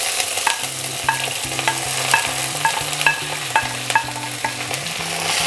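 Fried okra and onion sliding into a kadhai of hot oil tempered with mustard seeds and cumin, sizzling steadily, with sharp ticks of the wooden spoon scraping them off the plate and stirring them in.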